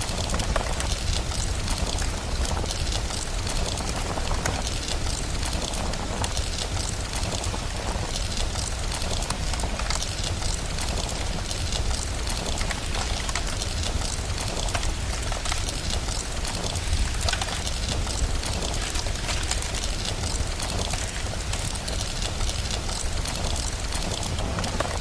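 Rain-and-crackling-fire ambience: a continuous even hiss over a deep steady rumble, dotted with fine crackles.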